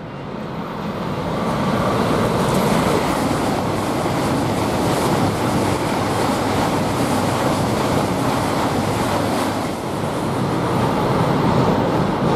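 Eurostar Class 374 high-speed train passing through the station at speed: a loud, steady rush of wheels and air that builds over the first two seconds and holds as the carriages go by.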